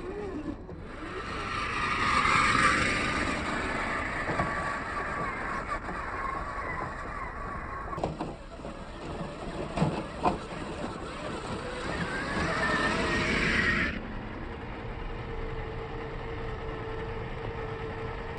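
Electric motor and gearbox of a 1/8-scale RC rock crawler whining as it is driven, the whine swelling and easing with the throttle, with a few sharp knocks near the middle as the truck crawls over rocks. The whine cuts off about three quarters of the way through, leaving a lower steady hum.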